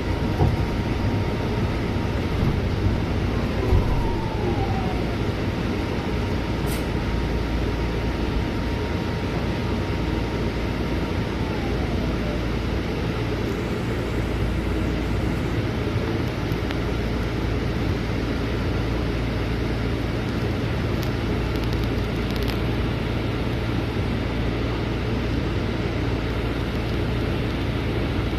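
Scania bus heard from inside the cabin while driving: a steady engine and road rumble, with a faint high whine that drops in pitch twice, about four and twelve seconds in.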